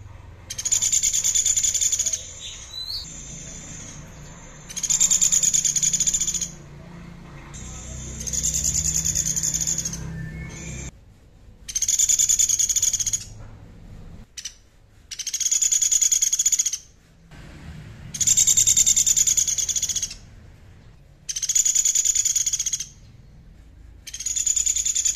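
A songbird repeating a high, rapidly pulsed buzzy trill, eight phrases of about two seconds each, roughly every three seconds.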